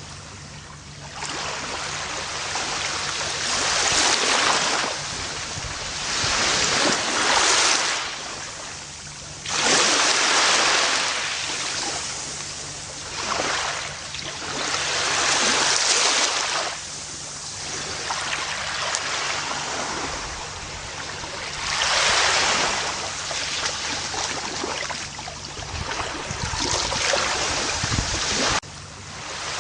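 Gentle ocean waves washing up on a beach, the surf rushing in swells that rise and fall every three to six seconds, with a sudden dip in level near the end.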